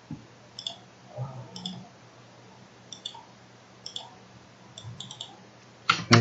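Computer mouse buttons clicking, mostly in quick pairs, every second or so, with a louder pair of clicks near the end.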